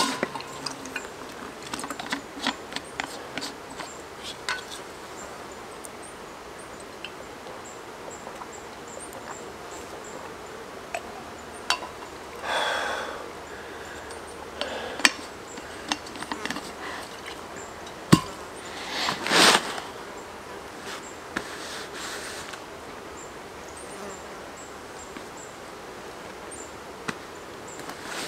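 Insects buzzing, with scattered light clicks and two brief rustling bursts, the first about halfway through and the second a few seconds later.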